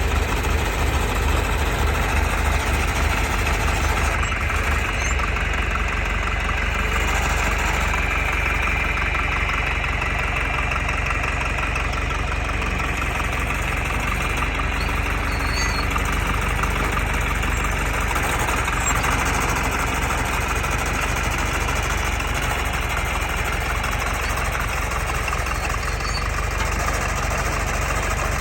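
John Deere 3020 tractor's four-cylinder engine idling steadily.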